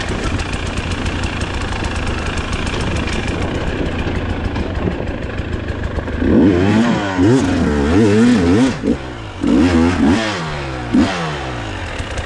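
Dirt bike engine running at low revs, then revved hard from about halfway in wavering throttle bursts. The revs drop briefly, rise again, and end with one short blip near the end.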